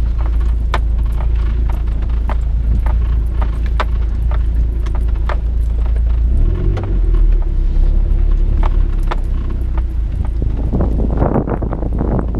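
A vehicle in motion: a steady low rumble with frequent light rattles and clicks, the rumble shifting about six seconds in, and a louder rustling noise near the end.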